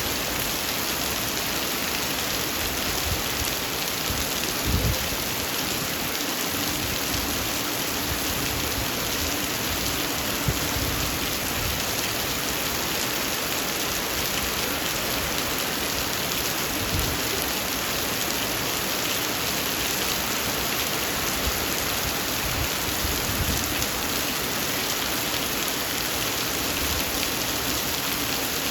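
Heavy rain falling steadily, a dense even hiss of drops on surfaces, with a few brief low thuds.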